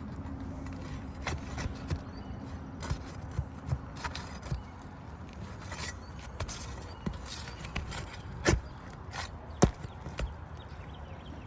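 Scattered scrapes and knocks of hand work on asphalt roof shingles during a shingle tear-off, with two sharper knocks late on, over a steady low background noise.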